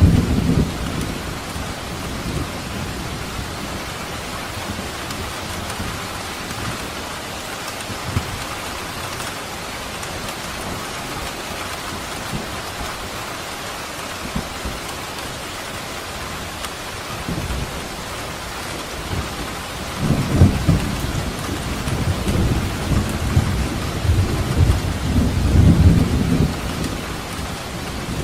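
Steady downpour of rain hissing on surfaces, with low rolls of thunder rumbling at the very start, about two-thirds of the way through, and again near the end.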